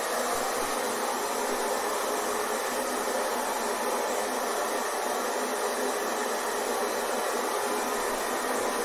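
Hair dryer running steadily: an even, unchanging rush of fan airflow with a faint motor hum, with no deep bass.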